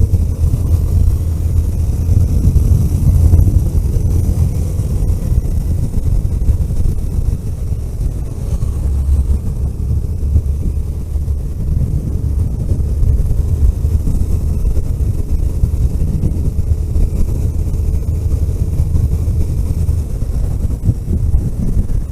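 A road vehicle driving steadily, heard as a continuous low rumble of engine and road noise.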